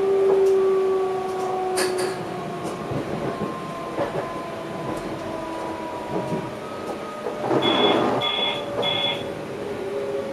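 Electric passenger train heard from the driver's cab, its drive whine falling slowly in pitch as the train slows. About eight seconds in, a short rumble comes with three short electronic beeps from the cab.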